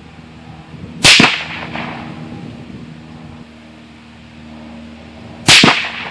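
Two rifle shots from a Savage Axis .223 heavy-barrel rifle, about four and a half seconds apart, each a sharp crack with a short tail.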